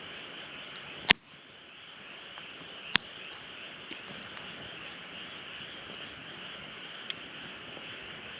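Wood fire burning in a campfire stand, with a steady hiss under it and two loud, sharp pops about two seconds apart, then a fainter crackle near the end.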